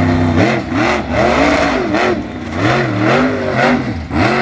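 Monster truck engine revving in quick repeated throttle blips, its pitch rising and falling about twice a second.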